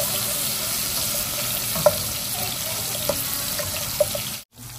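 Garlic sizzling in hot oil in a cooking pan, a steady hiss with a few sharp clicks; the sound cuts off suddenly near the end.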